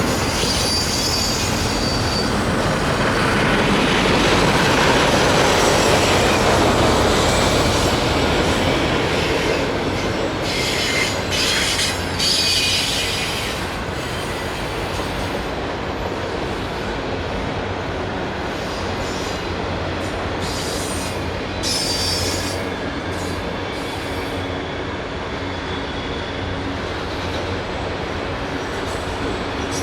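Norfolk Southern freight train's cars rolling past steadily, with brief high-pitched wheel squeals about ten seconds in and again about twenty seconds in.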